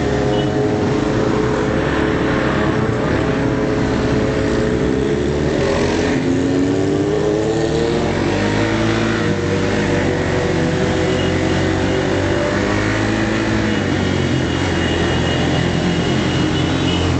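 Motorcycle engine running on the move, its pitch rising and falling several times as it speeds up and eases off.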